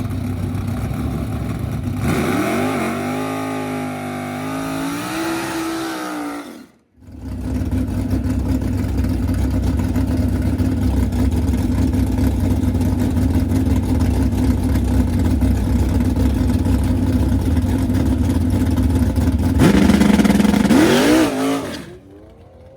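Drag race car engine running steadily, revving up with a rising pitch about two seconds in and again near the end. The sound breaks off for a moment at about seven seconds.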